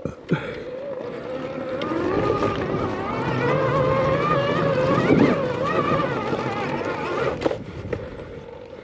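Electric dirt bike motor whining under load on a hill climb, its pitch wavering up and down with the throttle over a rushing noise. There is a single sharp knock near the end.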